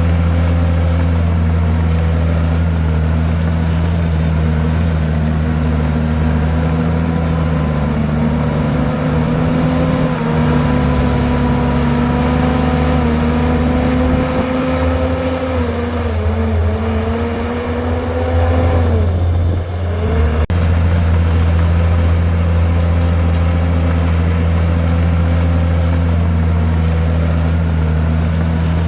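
Bulldozer's heavy diesel engine running steadily. About two-thirds of the way through, the engine pitch sags, dropping sharply for a moment as the engine is loaded, then recovers to a steady run.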